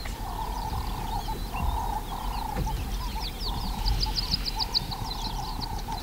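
Birds calling outdoors: many short high chirps, with a quick run of them about four seconds in, over a repeating lower call.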